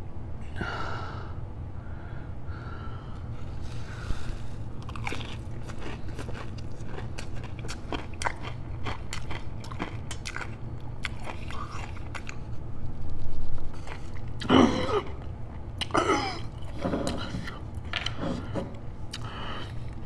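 Close-miked, wet chewing and crunching of a breaded fried chicken finger dipped in sauce, with many small crisp crunches throughout. A few louder mouth sounds come about two-thirds of the way in.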